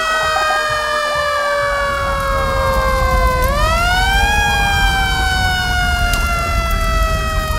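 Cartoon fire truck siren wailing: a slowly falling tone that sweeps quickly back up about three and a half seconds in, then falls slowly again. A low engine rumble comes in about two seconds in.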